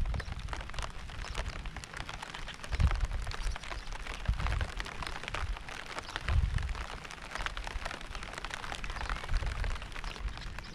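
Rain falling steadily: a dense hiss of many small drop hits. Deep low rumbles swell and fade several times through it, the strongest about three and six seconds in.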